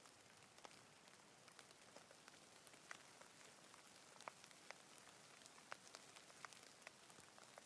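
Faint, light rain: a soft, even hiss with scattered sharp ticks of individual drops landing, several a second, a few of them louder.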